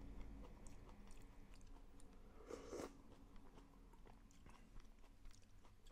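Faint chewing and crunching of a mouthful of kimchi, in small scattered clicks with a slightly louder bite or crunch about two and a half seconds in.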